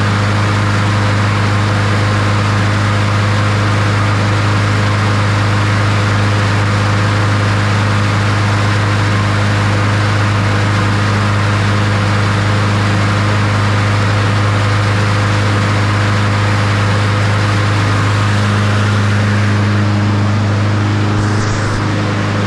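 Honda HRR216 push mower's single-cylinder engine running at a steady speed. It is running rich with black smoke from the muffler, which the mechanic puts down to the choke not opening.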